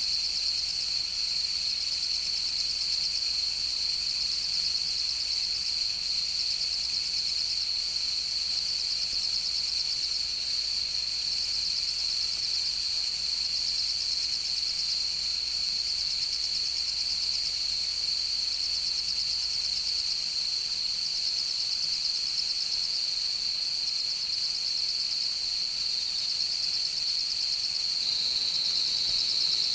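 Autumn night insects singing together: one steady, unbroken high trill, with a higher, thinner chirping repeated in short phrases every second or two.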